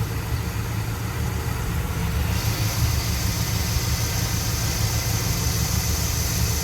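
1973 Dodge D100 pickup engine idling steadily, its cooling system unpressurized-cap check aside, with a steady high hiss coming in about two seconds in.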